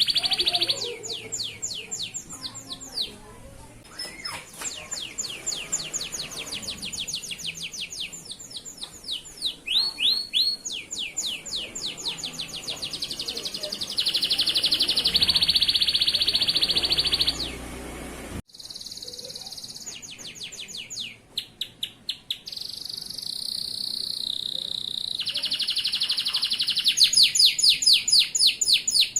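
Male canary singing: fast trills of quickly repeated notes alternating with long, even rolling notes, in phrases broken by short pauses. There is a sudden break about 18 seconds in.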